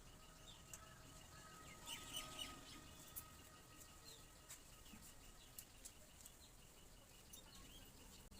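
Near silence with faint bird chirps in the background and a few light clicks, the loudest a cluster about two seconds in.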